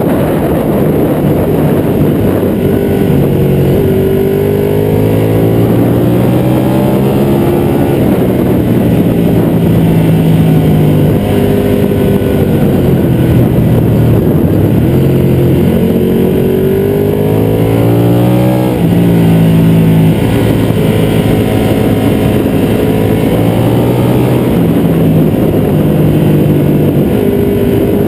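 Ducati 1199 Panigale's 1198 cc Superquadro L-twin engine running hard around a track, its pitch climbing under throttle and dropping sharply at gear changes and off-throttle. A constant rush of wind noise runs under it from the fairing-mounted microphone.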